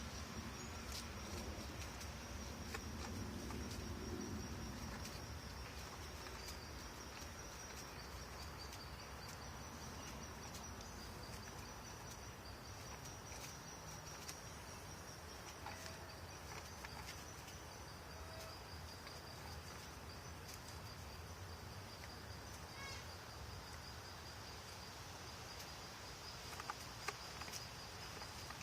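Insects chirring: a steady high-pitched trill, with a few faint, scattered clicks.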